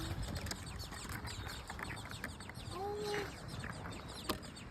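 Nestling songbirds begging in the nest: a rapid, continuous stream of thin, high chirps, each sliding down in pitch. The calls are hungry begging for food.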